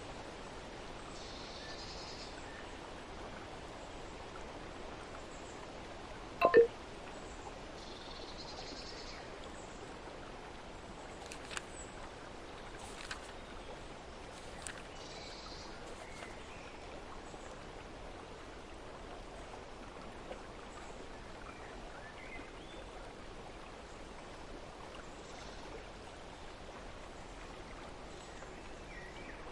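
Steady running-water ambience like a stream trickling, with a few faint high chirps. About six seconds in, one brief loud pitched tone stands out, and a few light clicks come midway.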